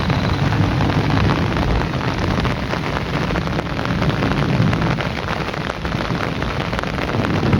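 Heavy rain falling steadily, a dense mass of individual drop hits over a continuous low rumble.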